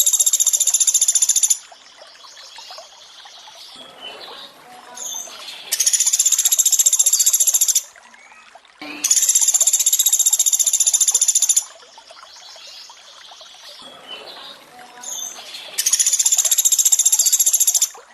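Pelatuk beras 'tembakan' song, a rapid high trill of evenly spaced notes, each lasting about two seconds and repeated about every three to four seconds. Between the trills, running water goes on more quietly.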